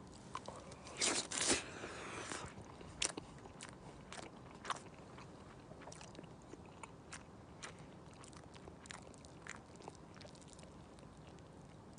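A person biting into and chewing crunchy food: a loud crunching bite about a second in, then scattered crisp crunches as the chewing goes on.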